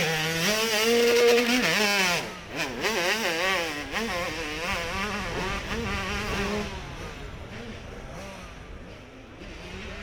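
Hill-climb motorcycle engine revving hard, its pitch rising and falling as the throttle opens and closes, loud at first and then fading away.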